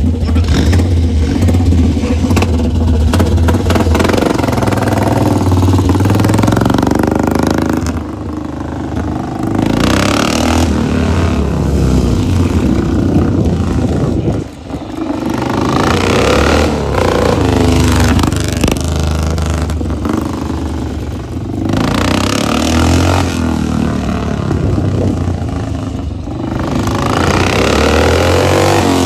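Rickman Metisse motorcycle's engine running and being revved, its pitch rising and falling back several times.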